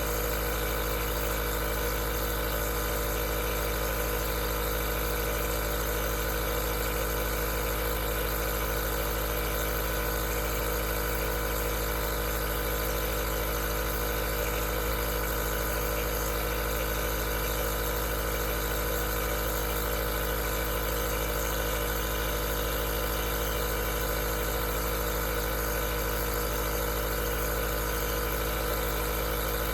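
Aerosol nebulizer's compressor running steadily: a constant motor hum with several fixed tones under an even hiss of air, unchanging.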